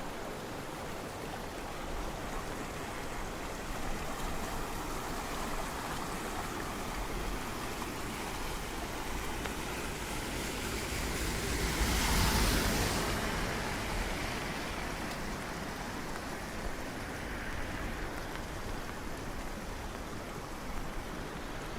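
Steady rushing water and rain, a continuous hiss, with a louder swell lasting about two seconds around the middle.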